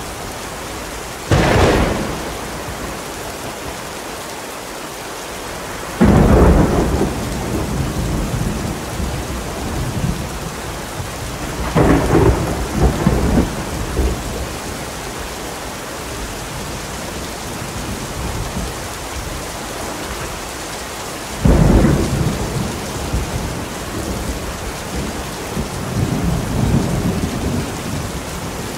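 Steady heavy rain with four thunderclaps: sharp cracks about 1, 6, 12 and 21 seconds in, each rolling into a low rumble.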